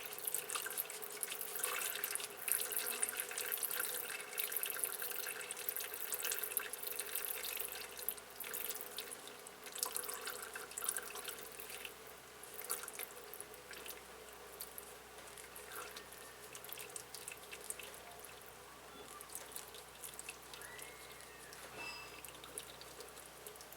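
Engine oil trickling and dripping from a Lifan engine during an oil change, the trickle slowly dying down.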